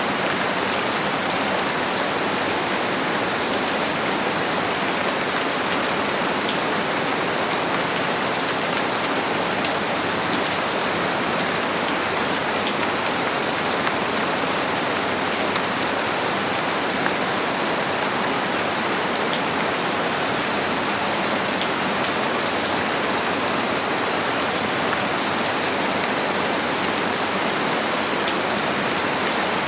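Steady rain falling and pattering on a surface, an even hiss with many fine individual drop ticks throughout.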